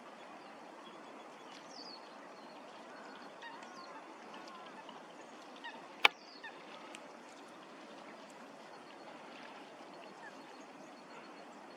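Waterfowl calling, a scatter of short honking and quacking calls, with a few higher bird chirps. A single sharp click about six seconds in is the loudest sound.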